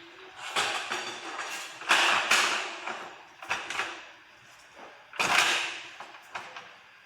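Chain-block mechanism being worked by hand, making rough creaking and scraping strokes of metal sliding on metal. There are about five strokes, the loudest about two seconds in and again past five seconds.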